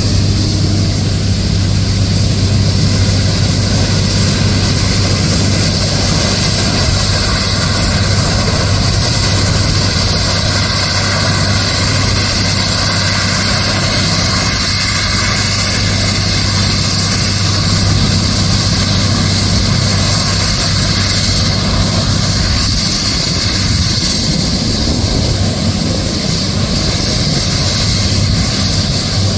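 Loram SBC-20 shoulder ballast cleaner working on the track: a steady, loud engine drone with a constant low hum under a broad rush of machine noise.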